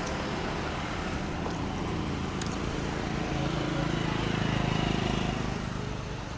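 A motor vehicle's engine running with road noise, growing louder about four to five seconds in and then fading away.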